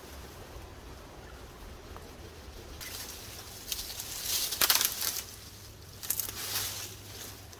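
Rustling and crackling in bursts, like dry leaf litter and twigs being disturbed: the loudest stretch about three seconds in, another shorter one about six seconds in.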